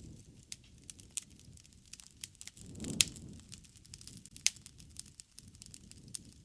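Wood fire crackling, with irregular sharp pops over a low rumble of burning; a swell of the rumble carries the loudest pop about three seconds in.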